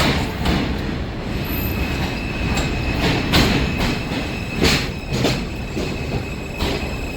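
New York City subway train running on elevated track, with a steady high-pitched wheel squeal from about a second and a half in and several heavy clacks as the wheels cross rail joints.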